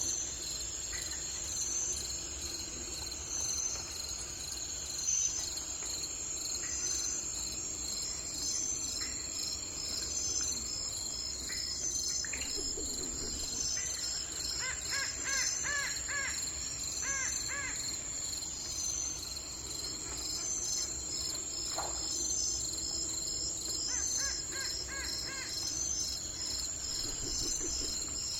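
A steady chorus of insects chirping high and pulsing without a break. A bird gives runs of three to five short calls in the middle and again near the end.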